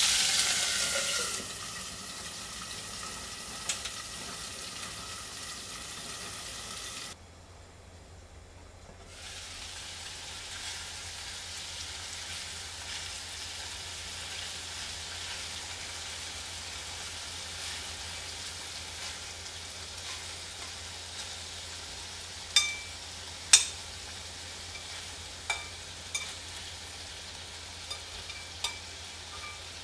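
Chicken pieces frying in a tagine base over a portable gas burner, a steady sizzle that is louder for the first second or so. From about three quarters in, metal tongs click and knock against the pan as the pieces are turned.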